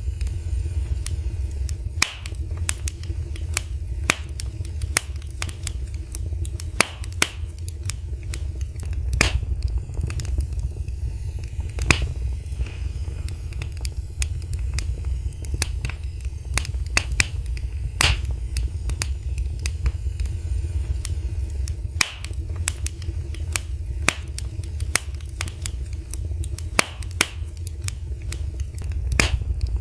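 Wood fire crackling in a fireplace: irregular sharp pops and snaps, sometimes several close together, over a steady low rumble.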